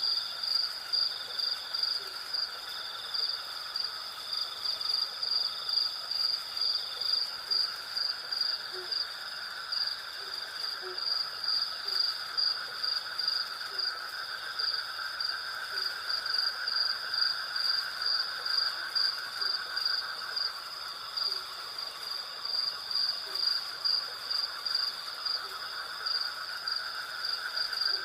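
Night chorus of crickets and cicadas: a high cricket chirp pulsing in a steady rhythm over a continuous lower insect buzz.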